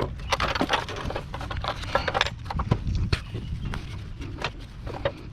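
Irregular clicks, knocks and clatter of metal and plastic air-conditioner parts being handled and cut during dismantling.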